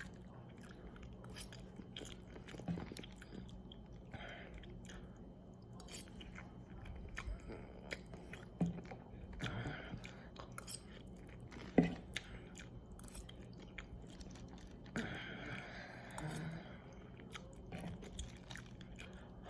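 A person chewing a mouthful of microwaved sesame chicken and vegetables close to the microphone, soft wet chewing with scattered small clicks and one sharper click about twelve seconds in.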